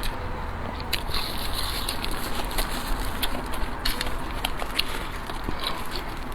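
Close-miked eating: someone biting and chewing food, a series of sharp crackly clicks scattered over a steady background hiss.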